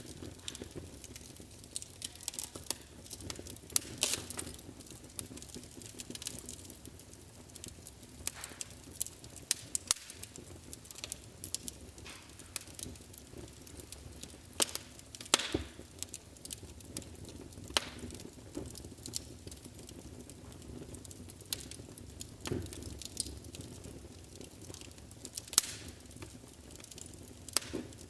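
Wood fire crackling in a fireplace: irregular sharp pops and snaps over a low steady hiss of flame.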